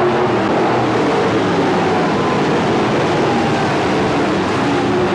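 Stock car engines running loud and steady at racing speed.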